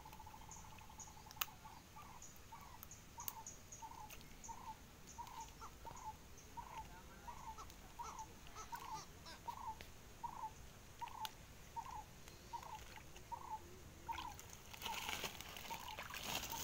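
A bird calls a short note over and over, about one every 0.6 seconds, with faster high ticking at first. Near the end comes a burst of water splashing.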